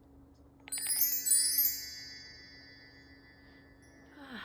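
Metal chimes struck a few times in quick succession, ringing high and clear and fading out over about two seconds. Near the end comes an audible breath with a soft sigh.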